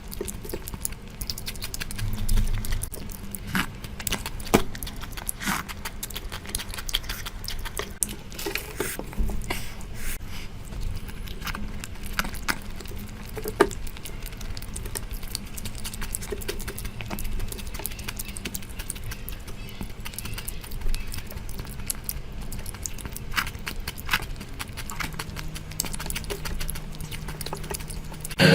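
Close-miked eating sounds of curry being eaten: many short, irregular wet clicks, smacks and chewing noises over a faint low hum.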